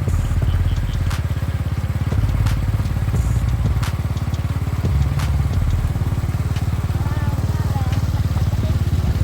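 Motorcycle engine pulling a sidecar rig, running steadily while under way, with scattered sharp knocks and rattles from the rig over the road.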